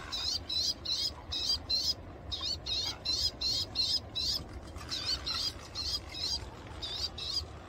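A small bird giving runs of short, high, thin chirps, about three to four a second, with brief pauses between the runs.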